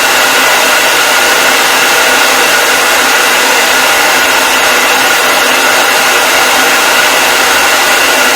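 Hair dryer running steadily: a constant, even rush of blown air with a faint steady whine on top.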